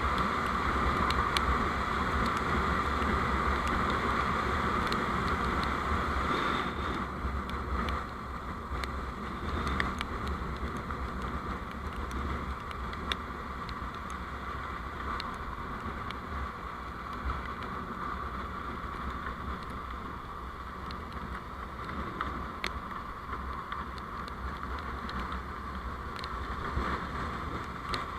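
Steady driving noise from a moving road vehicle picked up by a dashcam: a constant rush with a low rumble, a little quieter from about seven seconds in.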